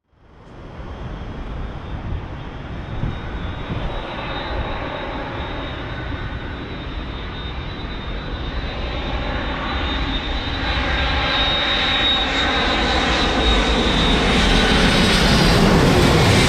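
Jet airliner's engines: a rumble with a steady high whine, growing steadily louder as the aircraft approaches.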